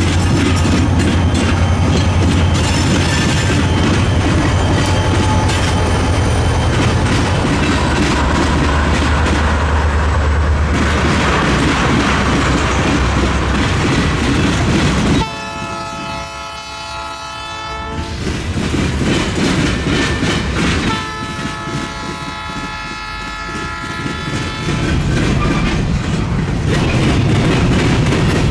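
Diesel freight train passing: a heavy locomotive rumble with wheels clattering over the rail joints, then two long horn blasts about three seconds apart, each a steady multi-note chord.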